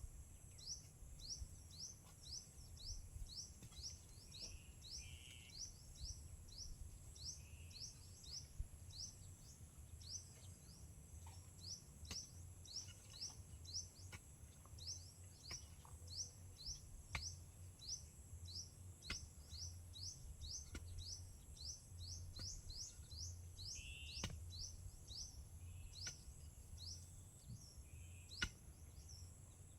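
Faint countryside ambience: a steady run of short, high chirps, about two a second, over a continuous high-pitched insect-like hum and a low rumble. A few sharp clicks or knocks fall here and there.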